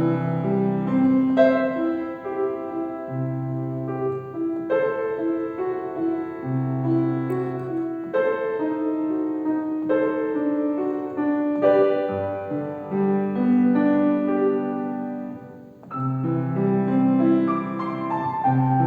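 Solo piano playing a melody over recurring low bass notes, with a brief break about three seconds before the end, after which the phrase starts again.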